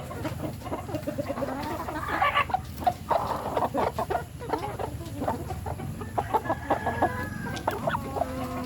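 A flock of chickens clucking at feeding time, many short calls overlapping, busiest from about two seconds in.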